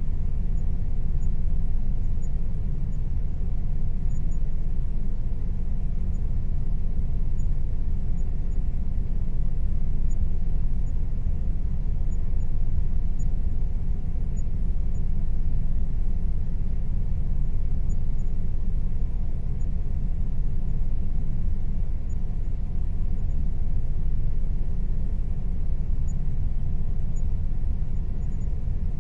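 Air conditioner running steadily: a constant low rumble of airflow with a faint, even hum from its motor.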